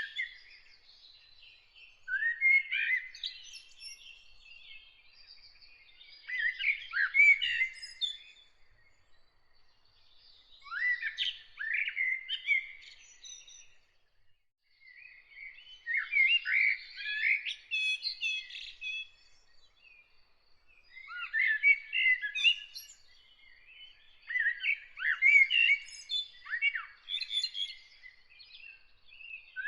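A songbird singing in short phrases of quick chirps and sliding whistled notes, each phrase about two seconds long, repeated every four seconds or so with short pauses between.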